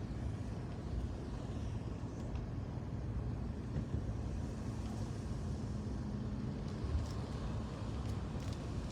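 A vehicle driving, a steady low rumble of engine and road noise.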